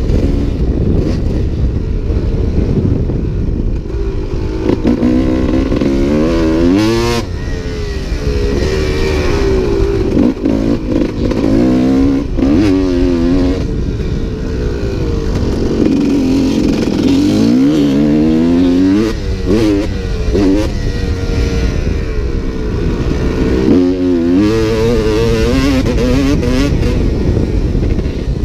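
Dirt bike engine being ridden hard, its pitch repeatedly climbing as it revs and dropping off between shifts and corners, over a constant low rumble.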